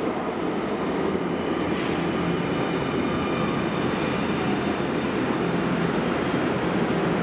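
Electric commuter train moving through an underground station, a steady rumble of wheels on rail, with a thin high squeal coming in about four seconds in.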